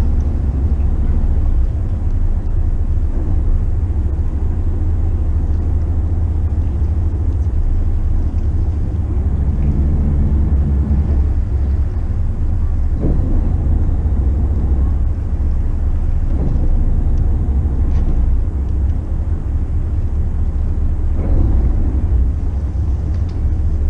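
Steady low rumble of a motor yacht under way: the drone of its engines mixed with wind and water noise, holding level throughout, with a brief faint hum near the middle.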